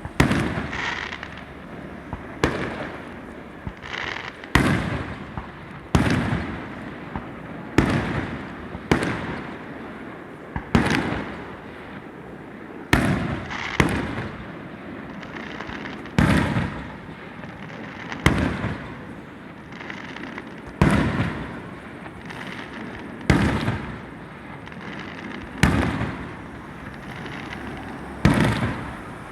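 Fireworks display: aerial shells bursting one after another, a loud bang about every two seconds, each trailing off over about a second.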